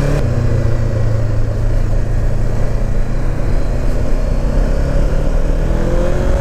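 Honda CB500X parallel-twin engine running under way, with heavy wind rush over the on-bike camera's microphone. Near the end the engine note rises as the bike pulls away.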